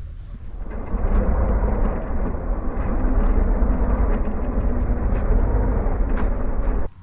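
Loud, low rumble of wind buffeting the microphone on a moving motorcycle, the bike running underneath. It swells about a second in and cuts off suddenly near the end.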